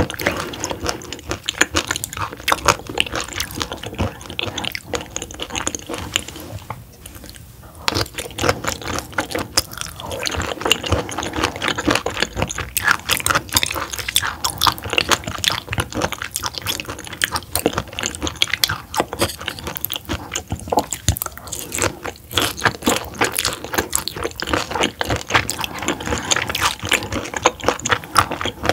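Close-miked chewing of raw roughscale sole sashimi: a dense, continuous run of wet mouth clicks and smacks, which lets up briefly about seven seconds in.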